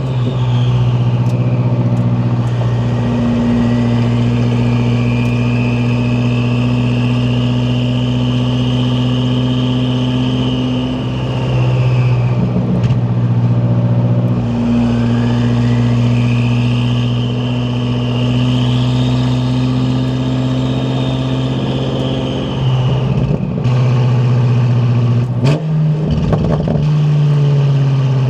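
BMW F10 M5 Competition's twin-turbo 4.4-litre V8 through an Akrapovič exhaust, driving with a steady low drone, loud, at a near-constant engine speed. A higher whine rises and falls twice over it, and near the end the engine note steps up in pitch with a few sharp knocks.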